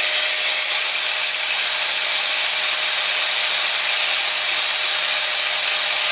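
A metal cutoff tool's abrasive wheel grinding steadily into a slab of 5160 spring steel: loud grinding hiss over a steady motor whine, held at constant speed.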